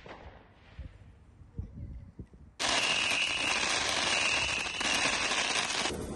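Fireworks crackling densely. The crackle starts suddenly about two and a half seconds in, after a few faint low thumps, and cuts off abruptly about three seconds later.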